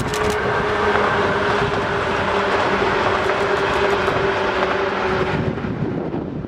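Five-car 115-series electric train running past, its wheels giving a last few clicks over rail joints at the start, then a loud steady rumble of running noise with a steady tone under it. The noise eases off about five and a half seconds in as the train draws away.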